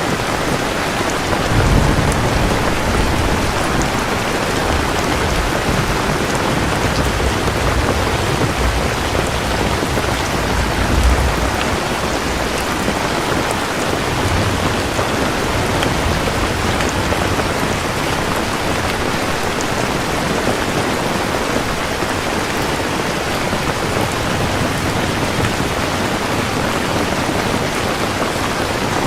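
Steady rain falling, with thunder rumbling low through the first twelve seconds or so and swelling twice, about two and eleven seconds in.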